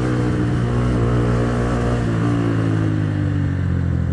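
A 2010 Minerva R150 VX's 150 cc single-cylinder SOHC engine running under acceleration, its pitch breaking at a gear change right at the start and shifting again about two seconds in, then slowly falling. The rider finds its pull very weak.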